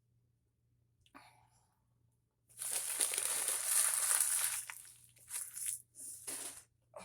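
Food packaging crinkling as it is handled: a long stretch of crackling about two and a half seconds in, then several shorter crinkles.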